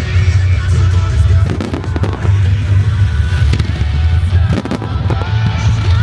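Large aerial fireworks display with continuous deep booms and sharp crackling bursts, over music played for the show.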